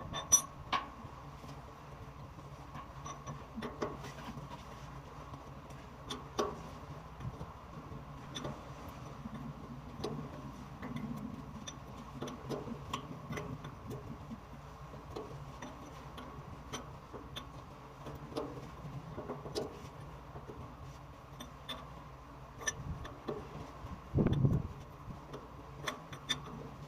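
Irregular light clicks and taps, the small knocks of hand work on a hydrant fitting, over a steady machinery hum. A louder knock comes about two and a half seconds before the end.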